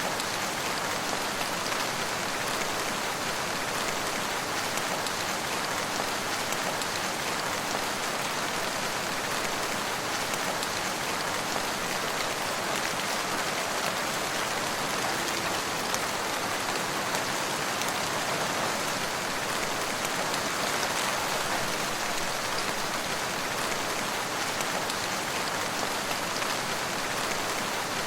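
Steady rainfall, many fine drops pattering on surfaces in an even hiss.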